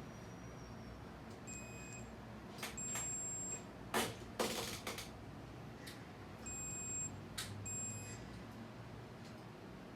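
Four short electronic beeps, all at the same high pitch, with a few sharp clicks and a half-second burst of hiss between them.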